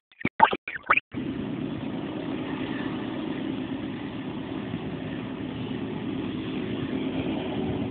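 Diesel locomotive engine running as the train approaches, a steady low rumble that starts abruptly about a second in.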